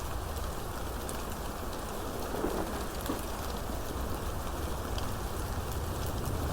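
Steady rainstorm: an even wash of rain with scattered sharp drop ticks and a low rumble underneath.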